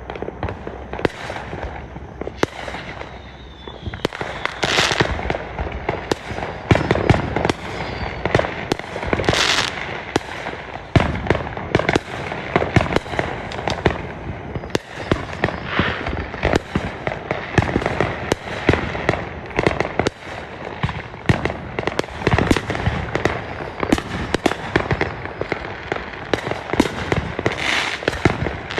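Fireworks going off in a rapid, continuous barrage of bangs and pops, with two drawn-out bursts about five and nine seconds in.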